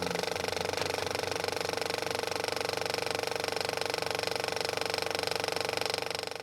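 A small machine running steadily, with a fast even clatter of about a dozen clicks a second over a constant hum, tailing off near the end.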